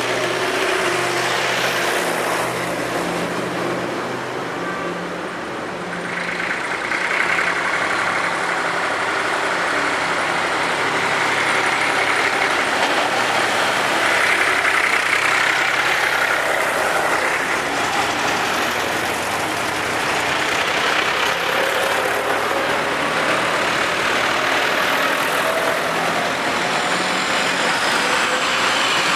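Tractors driving past in a procession, their engines running steadily, with one passing louder and closer in the first half.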